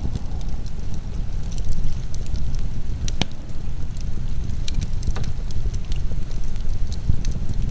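Wood fire crackling, with scattered sharp pops, one louder snap about three seconds in, over the steady dense noise of heavy rain.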